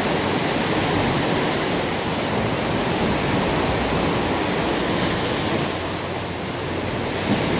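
Sea surf washing steadily against the shore, a continuous rushing hiss that dips briefly around six seconds in.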